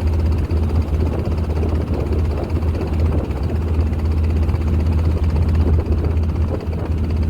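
Motorboat engine running steadily, a constant low drone with no change in speed.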